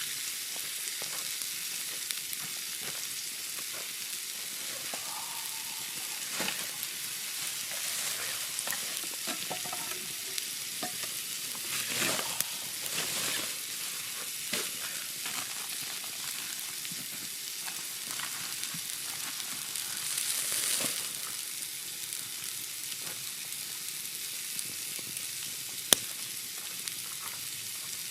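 Steak sizzling on a steel griddle over an open wood fire: a steady hiss with scattered pops, swelling louder twice. A sharp click near the end.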